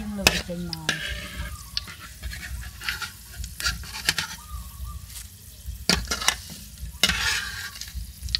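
Kaffir lime leaves and lemongrass stalks sizzling in hot oil in a steel wok. A metal ladle scrapes and clinks against the pan again and again as the leaves, fried crisp, are stirred and scooped out.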